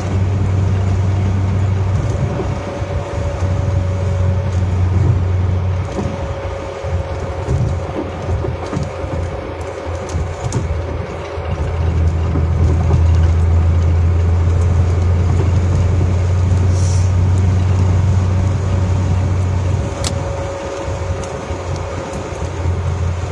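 Road and engine noise inside a moving car: a loud steady low drone that falls away for several seconds about six seconds in and again briefly near the end, with a faint steady whine above it.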